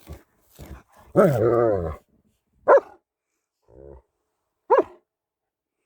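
German Shepherd dog vocalising during play: a drawn-out, wavering call about a second in, then two short, sharp barks about two seconds apart.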